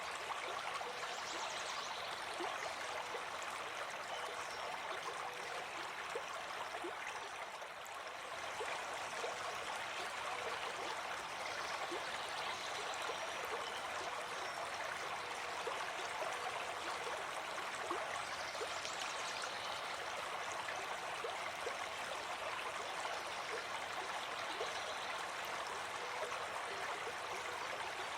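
Running water flowing steadily: an even rush of water with scattered small splashes.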